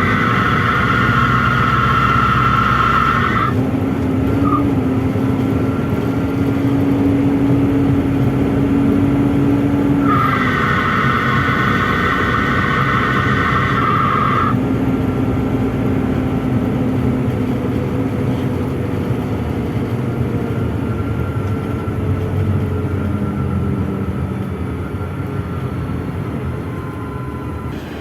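A PAZ-422320-14 Citymax 9 city bus driving, heard from inside the passenger cabin: a steady engine and road drone. A high whine comes over it twice, at the start for about three seconds and again for about four seconds in the middle. The sound grows quieter near the end.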